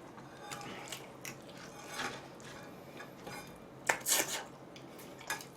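Close-up eating and food-handling sounds: scattered light clicks, rustles and clatter of food and its containers being handled. The loudest cluster comes about four seconds in.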